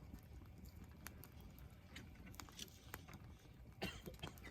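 Wood campfire crackling faintly: scattered sharp pops and ticks, a few a little louder about a second in and near the end, over a low steady rumble.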